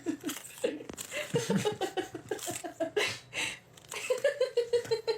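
People laughing in runs of short, quick bursts.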